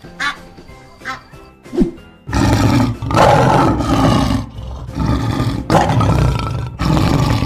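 Lion roar sound effect: several loud, rough roars in a row, starting about two seconds in, over light children's background music. A single goose honk comes right at the start.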